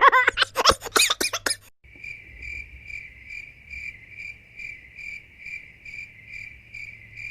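Cricket chirping sound effect, the stock 'awkward silence' crickets: an even, high chirp repeating about two and a half times a second. It starts about two seconds in, right after the end of a preceding voice-like effect with rapid clicks.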